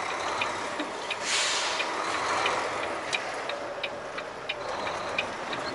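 Semi truck running while backing slowly into a dock, its diesel engine giving a steady rumble, with a short burst of air hiss about a second in and light scattered clicks.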